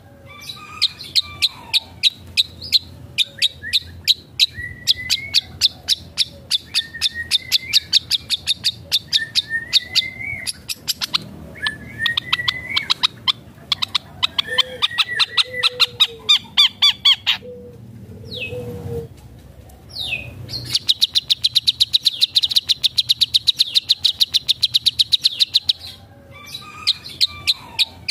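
Long-tailed shrike (cendet) in full song: rapid runs of sharp, repeated notes and short rising whistles, mixed with calls it has copied from other birds. Long, fast, high trills come in the second half, after a brief break about 18 seconds in.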